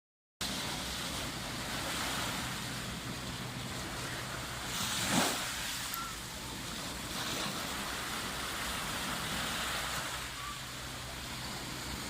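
Sea waves washing on a beach, a steady rush with wind on the microphone, and one louder surge about five seconds in.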